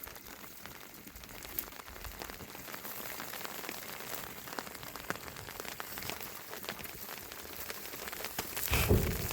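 Steady light patter of rain, many small drops ticking on surfaces, with a brief louder low thump near the end.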